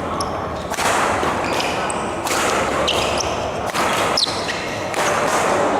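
Badminton rally in an indoor hall: sharp racket strikes on the shuttlecock and brief high squeaks of shoes on the court floor.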